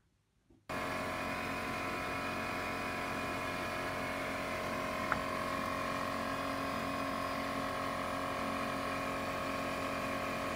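A steady mechanical hum with several held tones, starting suddenly about a second in and running at an even level, with one small click about five seconds in.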